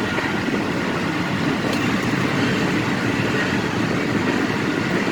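Freight train of intermodal container cars rolling past, a steady, continuous rumble of steel wheels on the rails.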